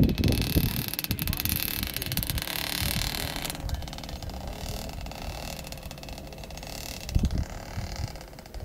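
Motocross bike engine running, quieter after about three and a half seconds, with low thumps at the start and again about seven seconds in.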